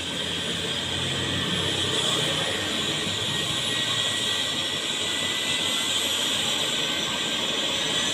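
Helicopter engine running just after start-up: a steady turbine whine and rushing noise, growing a little louder over the first two seconds, then holding steady.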